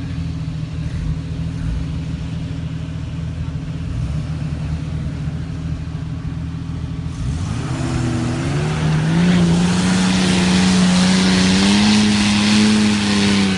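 Off-road vehicle's engine running steadily, then about seven seconds in revving up hard and holding high revs for several seconds before the revs drop at the end, as on a full-throttle run up a sand dune.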